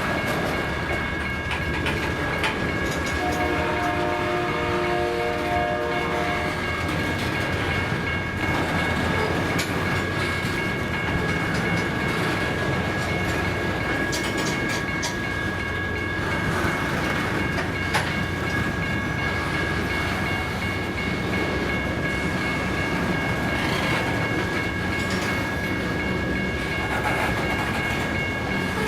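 Cars of a loaded rock train rolling past, the wheels clattering steadily on the rails with a steady high-pitched whine over them. A train horn sounds for about three seconds a few seconds in.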